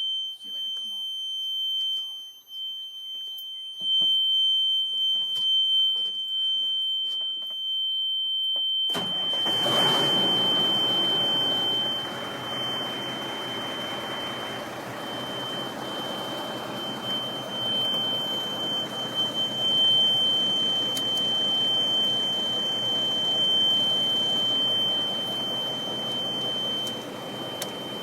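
A steady, high-pitched warning buzzer in the Ford tandem dump truck sounds continuously. About nine seconds in, the truck's engine starts and keeps running under the buzzer.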